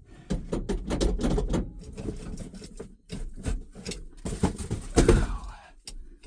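Ford F-350 dump truck's engine running, heard from inside the cab, with a steady low hum under a run of irregular clicks, knocks and rattles.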